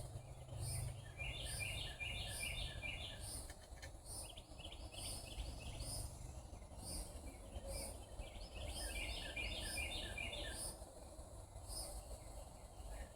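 Outdoor nature ambience: a bird sings repeated phrases of quick, descending chirps. Behind it, insects give a regular high-pitched pulsing chirp, a little more than once a second.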